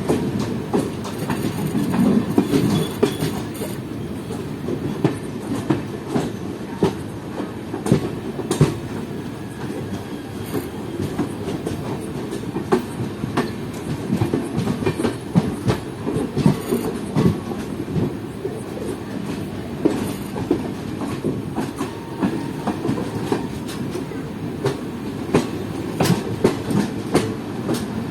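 Passenger train running along the track: a steady low rumble, with the wheels knocking and clacking over rail joints at uneven intervals.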